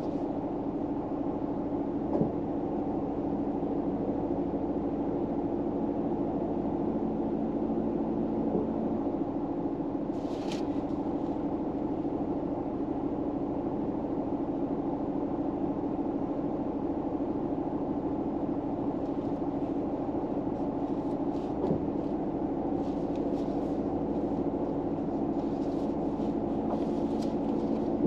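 Steady low hum with a held tone, heard inside a car's cabin, typical of a parked car's engine or climate fan running. A brief faint scratch comes about ten seconds in, and soft light rustles and ticks come near the end.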